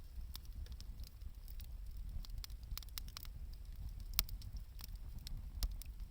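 Wood campfire crackling: irregular sharp pops and snaps over a low steady rumble, with the loudest pops about four seconds in and again shortly before the end.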